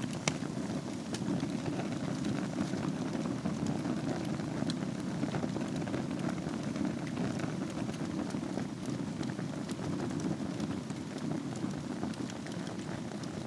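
Wood fire burning in a fireplace: a steady low rumble of flames with frequent small crackles and pops, one sharper pop just after the start.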